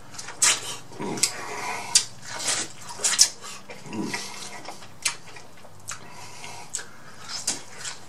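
Close-miked eating sounds of a person biting and chewing buttery corn on the cob: sharp wet lip smacks and chewing clicks, repeated every second or so.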